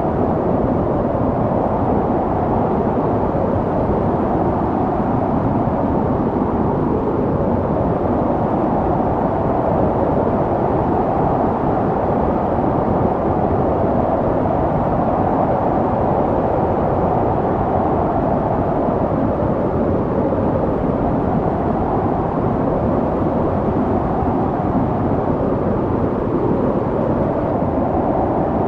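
Snowstorm wind: a steady, dense rush of noise, heaviest in the low and middle range, with a hollow band that slowly swells and fades every several seconds.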